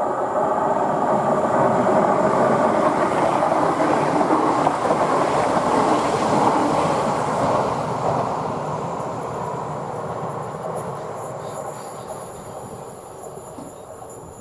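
Train passing over a level crossing, loud for the first half and then fading steadily as it moves away.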